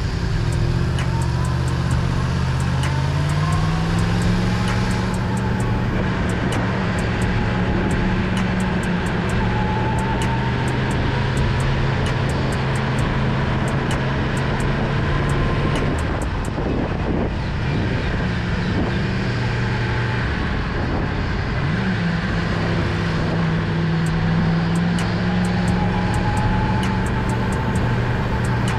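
Yamaha MT-10's crossplane inline-four engine and exhaust while riding, rising in pitch as it pulls through the revs, easing off about midway, then pulling again.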